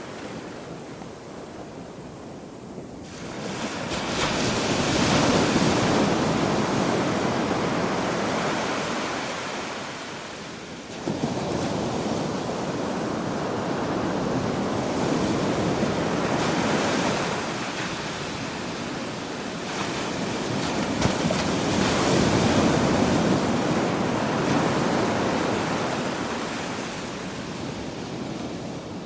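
Ocean waves breaking on a beach: a steady wash of surf that swells and ebbs in long surges, one wave crashing in sharply about a third of the way through.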